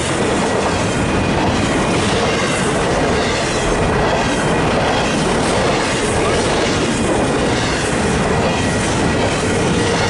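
Freight train rolling past at speed, its wheels clacking steadily over the rails.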